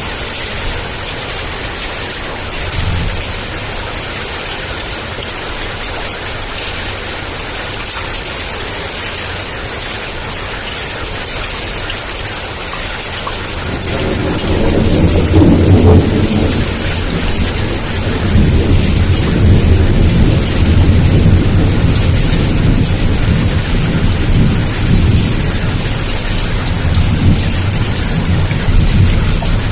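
Heavy rain falling steadily, with a long low thunder rumble that starts about halfway through and rolls on to the end.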